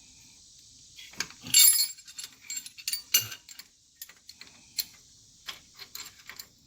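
Irregular metallic clicks and clinks of a hand ratchet and metal tools being worked on the rear wheel bearing bolts, with the loudest clatter about a second and a half in.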